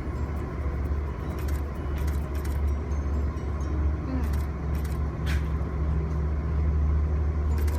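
A steady low rumble of background noise with scattered light clicks and ticks over it.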